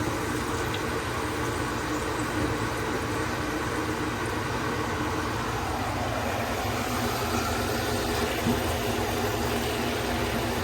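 Kitchen range hood fan running steadily, with tofu pieces sizzling in hot oil in an Instant Pot.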